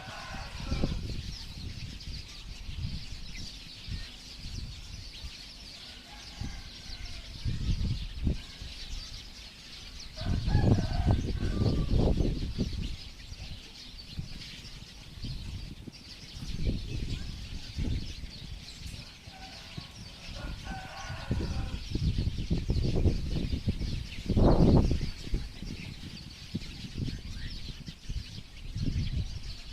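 Flock of birds calling: a dense, constant chatter of high chirps, with lower pitched calls a few times. Repeated low rumbling surges come and go; the loudest are about eleven and twenty-five seconds in.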